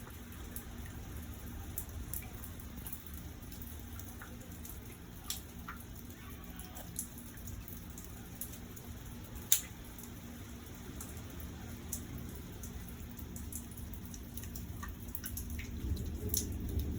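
Rain dripping: scattered single drops ticking on a hard surface, the loudest about halfway through, over a low steady rumble of the storm.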